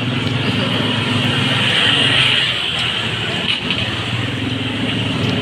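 A motor vehicle's engine running close by, a steady low hum that eases off about three seconds in and picks up again, with a hiss that swells about two seconds in.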